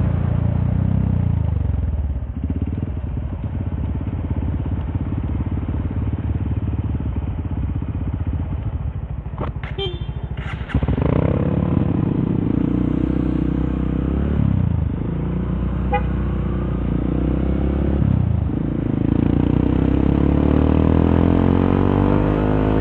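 Honda CRF150L's single-cylinder engine running through a Norifumi Torc aftermarket exhaust while being ridden. The revs rise and fall several times, with a brief dip in loudness and then a sudden jump back near the middle.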